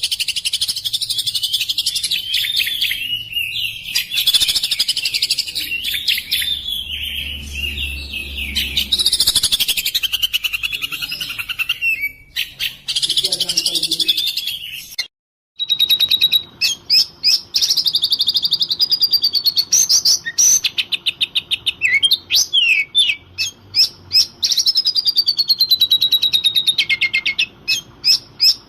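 Oriental magpie-robin (kacer) singing loudly in a rapid, varied stream of whistles, trills and clicks. The song stops briefly about halfway through, then resumes in shorter phrases with sharp clicks and falling whistles.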